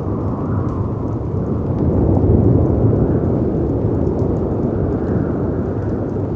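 Storm ambience: a steady low rumble of wind and breaking sea waves, swelling a little about two seconds in, with faint crackles from a fireplace.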